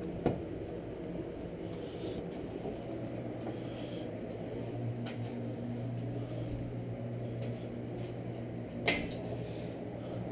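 Steady low mechanical hum, with two sharp clicks of hand tools or starter parts being handled: one just after the start and a louder one near the end.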